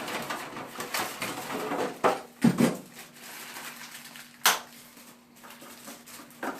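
Hard plastic parts of a new toilet fill valve knocking and clicking as they are handled, with a few louder knocks about two to three seconds in and a sharp click near the middle.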